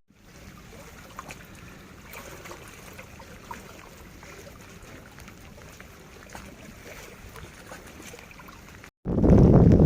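Faint steady hiss with a few light clicks. About nine seconds in, a loud, low rushing rumble starts abruptly.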